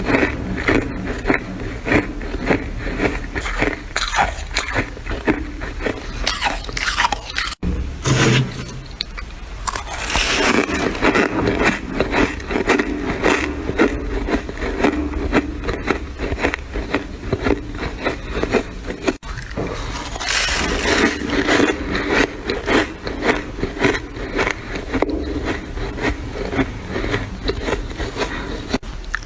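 Freezer frost being bitten and chewed close to the microphone: fast, dense crunching with squeaky, scraping textures.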